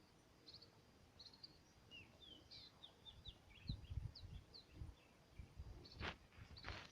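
Faint birdsong: many short, quick chirps from small birds, with a few low thumps around the middle and a brief rustle near the end.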